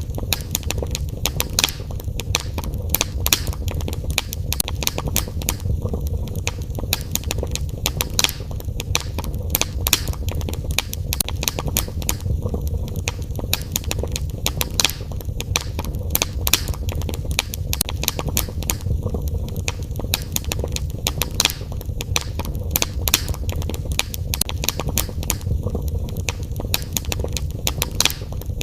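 Wood fire crackling, with many irregular sharp pops and snaps over a steady low rumble of the flames.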